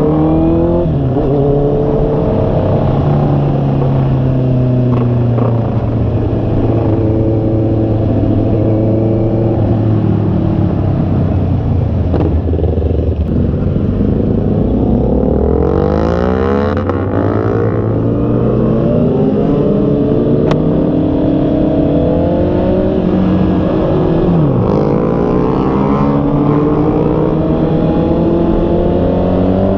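Honda CB650R's inline-four engine running under way, its revs rising and falling repeatedly as the bike speeds up and slows.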